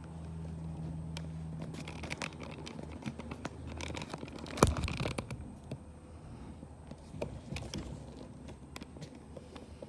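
Hand work with materials and tools: scattered scrapes, rustling and light clicks. A steady low hum runs for about the first four seconds, and a single sharp knock comes about halfway through.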